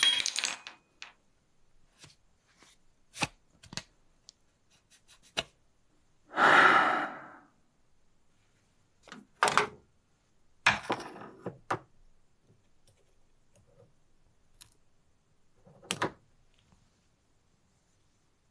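Hand tools and bicycle parts being handled during a repair: scattered short metallic clicks, clinks and knocks. A louder scraping, rustling burst lasting about a second comes about six and a half seconds in, and heavier clanks follow near ten, eleven and sixteen seconds.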